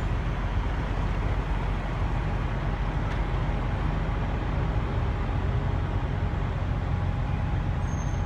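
Steady low rumble of a running vehicle, engine and road noise heard from close by, even throughout, with a faint steady whine near the end.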